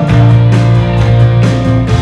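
Live rock-style worship band playing an instrumental passage: guitar over a held bass note, with a steady drum beat.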